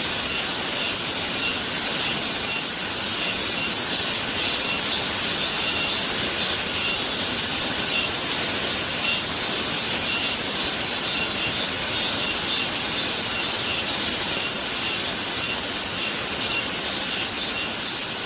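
Steady hiss of rain with a thin, high, steady tone running through it.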